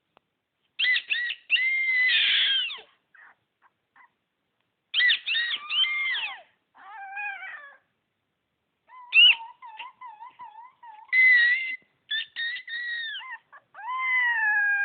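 A pet crying in bursts of high-pitched, bending calls, set off by a child's noises. About nine seconds in comes a wavering, warbling tone.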